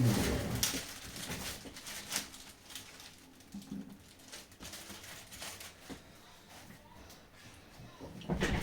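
Handling noises from small plastic controller parts being worked on by hand: scattered light clicks and taps, busiest at the start and again near the end.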